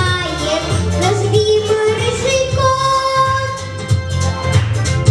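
A girl singing a melody over a pop accompaniment with a steady bass and beat, holding one long note through the middle.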